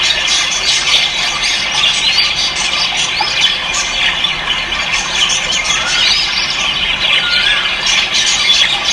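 Dense chorus of many ornamental cage birds calling at once: a steady din of overlapping shrill squawks, chirps and short whistled calls.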